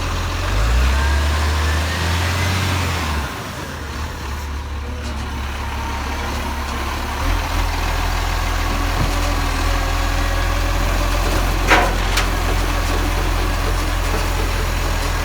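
Garbage truck's diesel engine running steadily. Its low note is stronger for the first few seconds, drops about three seconds in, and comes back up at about seven seconds. A sharp click sounds near the end.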